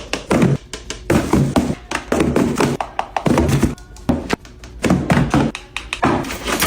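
Repeated thunks and taps, about two a second, over background music.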